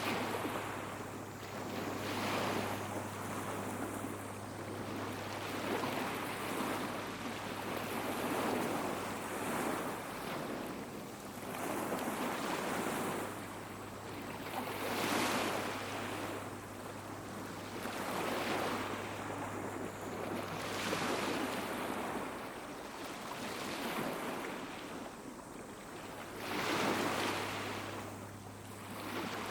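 Small waves washing onto a sandy beach, each wash swelling and falling every couple of seconds, with bigger ones about halfway through and near the end. A steady low hum runs underneath.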